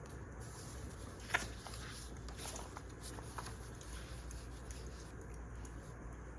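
Wood fire crackling, with scattered small pops and one sharp, louder pop a little over a second in.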